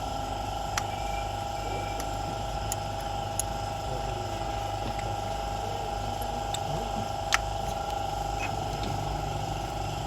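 Steady hum of an electric fan blowing on the engine, with a few sharp clicks, the loudest about seven seconds in.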